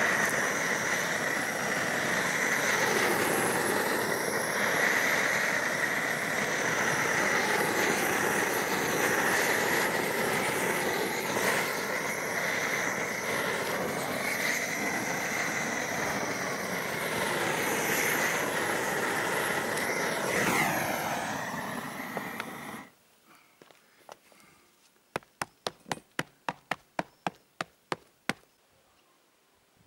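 Homemade propane gas burner running steadily while torch-on bitumen roofing is melted down. It cuts off abruptly about 23 seconds in, and a quick series of sharp clicks follows.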